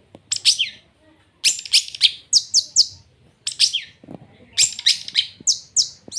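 A white-tailed long-tailed shrike (cendet) in full song, giving loud, sharp, quickly falling high notes in rapid clusters separated by short pauses.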